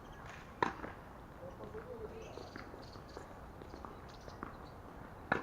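Tennis ball struck by a racket: two sharp hits, one about half a second in and one near the end, with fainter ticks of more distant hits and bounces between.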